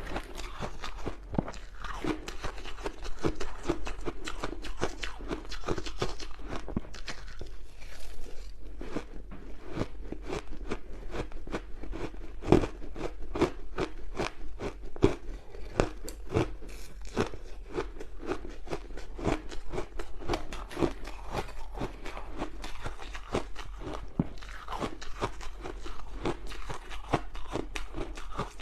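Ice being bitten and chewed close to the microphone: a continuous run of crisp crunches, with a few louder bites around the middle.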